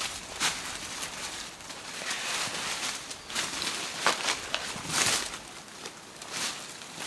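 Irregular rustling and crunching of dry leaves and twigs on a forest floor, with sharper snaps about four and five seconds in.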